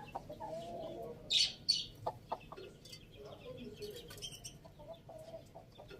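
Chickens clucking softly while they feed, with two short, loud, high-pitched calls about a second and a half in and a few sharp clicks.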